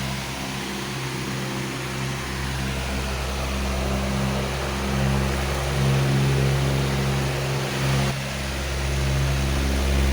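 Powerful electric fan running: a steady rush of air over a low motor hum. The deepest part of the hum is weaker for most of the stretch and comes back strongly about eight seconds in.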